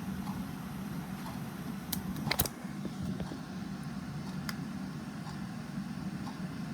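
A clock ticking about once a second over a steady low hum, with a short clatter of louder sharp clicks about two seconds in.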